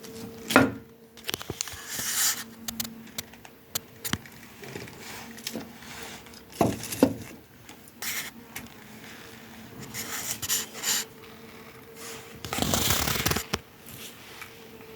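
Hand work on a walking stick: irregular clicks and knocks with short rubbing and scraping strokes, the longest scrape lasting about a second near the end, over a faint steady hum.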